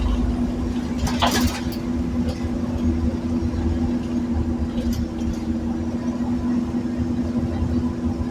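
Scania Omnicity bus's five-cylinder diesel engine running steadily with a constant hum, with a short hiss about a second in.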